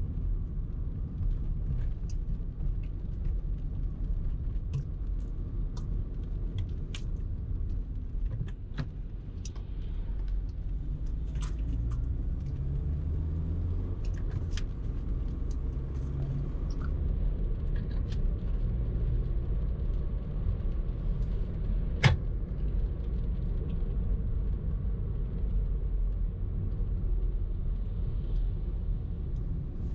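Car driving in traffic: a steady low rumble of engine and road noise, with scattered light clicks and one sharper click about twenty-two seconds in.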